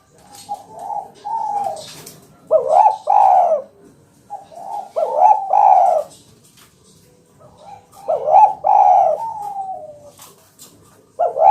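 Spotted dove cooing, repeating its short phrase of several low notes about every two and a half to three seconds, five phrases in all. The last one begins near the end.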